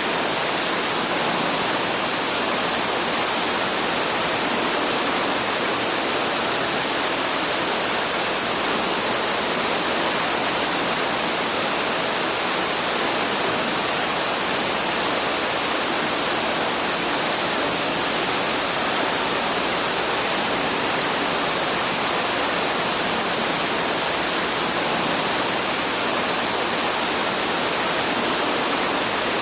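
Waterfall rushing in a steady, even hiss that never changes in level, heavy in the high end with little low rumble.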